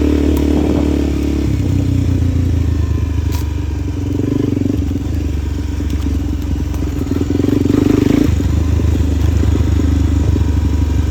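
A vehicle engine running at fairly steady revs, its note stepping to a new pitch a few times.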